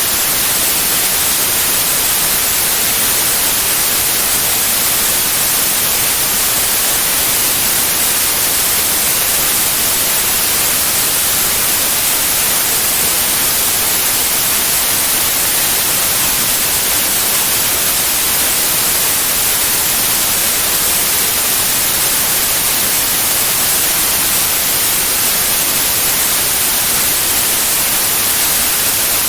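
Synthetic white noise: a steady, unchanging hiss, strongest in the highest pitches.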